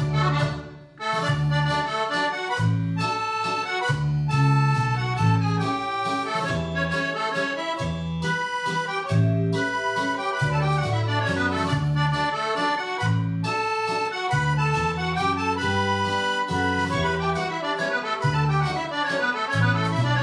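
Accordion playing a mazurka in triple time: a fast, ornamented melody over regular bass notes, with a brief break about a second in.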